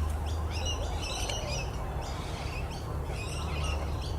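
Birds chirping in two short bursts of quick high calls, about half a second in and again about three seconds in, over a steady low rumble.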